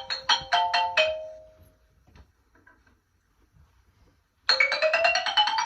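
Bright chime-like electronic notes in a quick tune that fades out, then after a pause of a few seconds a fast rising run of chime notes.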